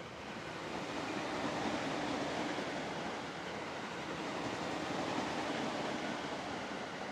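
JR East E231-series suburban electric train passing: a steady rush of wheels on rails that swells over the first second or two and then holds.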